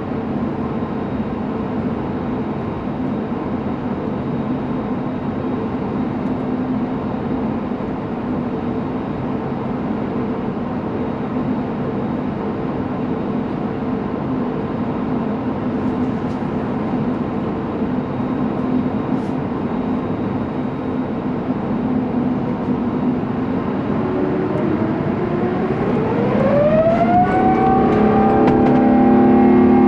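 Airbus A350-900 Rolls-Royce Trent XWB engines heard from the cabin: a steady hum while taxiing. About 24 seconds in comes a rising whine as the engines spool up to takeoff power, settling into a louder steady tone near the end.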